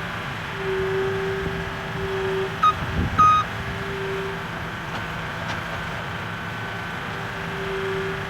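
An engine running steadily, with two short high beeps about half a second apart roughly three seconds in.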